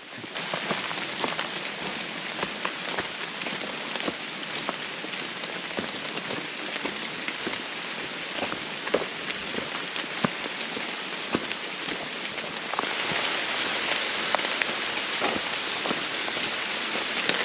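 Torrential rain falling steadily, with many sharp ticks of drops striking close by; the downpour grows heavier about three-quarters of the way through.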